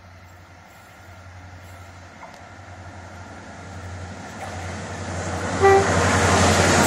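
Diesel freight locomotive approaching and passing close by, its engine hum and rail noise building steadily louder. It gives a brief horn toot just before it reaches the camera.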